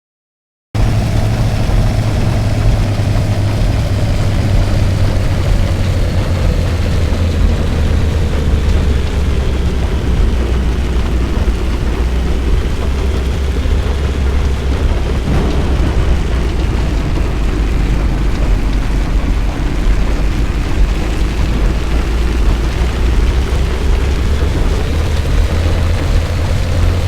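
Loud, steady low rumble of a car on the move, road and wind noise, with a faint whine that drifts slowly in pitch. It cuts in abruptly under a second in, after silence.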